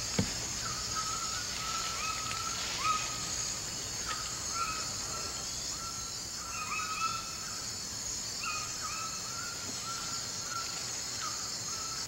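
Tropical rainforest ambience: a steady high-pitched insect drone, with many short animal calls repeated at a steady pitch, about one or two a second.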